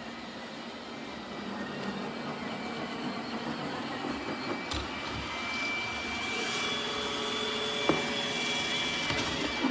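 iRobot Roomba Combo j7+ robot vacuum running: a steady motor whir with a constant high whine and a single knock about eight seconds in.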